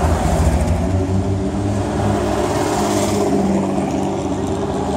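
Classic sports car engines running at low revs as a Nash-Healey rolls past close by and another classic car follows. The deep engine note is strongest at first, and a second engine note comes in about a second and a half in.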